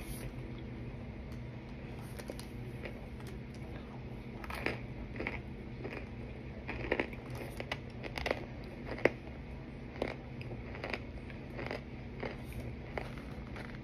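Someone biting and chewing pressed cornstarch mixed with baking powder: a run of sharp, dry crunches, sparse at first and coming more often from about four seconds in.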